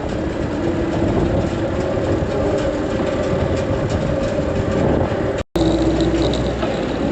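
A farm machine's engine running steadily under load while the grain head is being moved into storage, with a brief break about five and a half seconds in.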